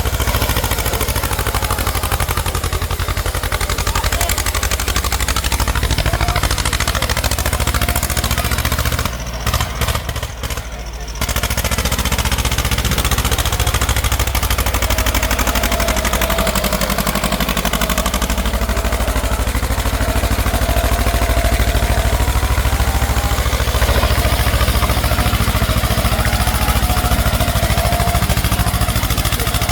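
Tractor engines running hard, with a steady low rumble; the sound dips briefly about nine seconds in.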